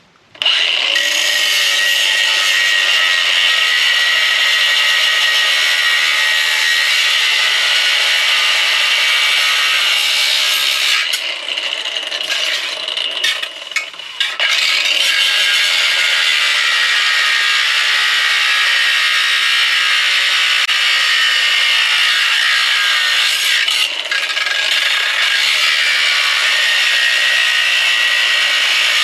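A cordless power tool cutting through a metal part of a microwave, running steadily at high speed. It stops and restarts briefly about halfway through and falters once more near the end.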